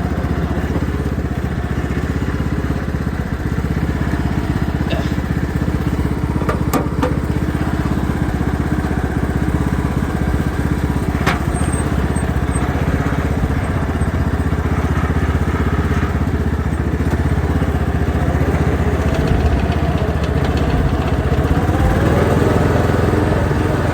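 Riding lawnmower engine running steadily while the mower is driven, with a couple of sharp knocks partway through.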